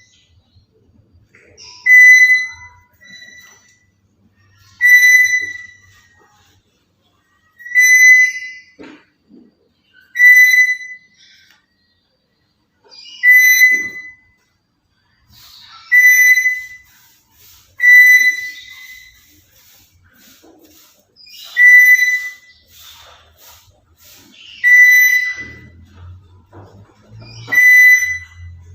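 Black-capped lory giving loud, whistled calls, about ten of them spaced every two to three seconds, each short and held on one steady pitch. It is the kind of call played as a training track to get a young lory calling and talking.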